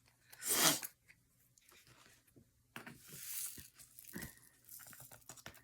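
Diamond-painting work at the table: two short rasps of plastic being peeled or crinkled, followed by a run of small light clicks and taps.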